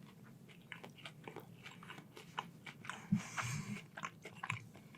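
Close-miked ASMR eating sounds: crunching and chewing on crunchy food, with scattered small clicks and crackles and a denser crunch about three seconds in.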